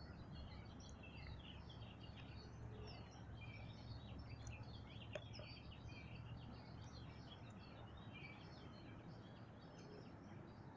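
Faint early-morning birdsong: many small birds chirping in short, overlapping notes throughout, over a steady low background rumble.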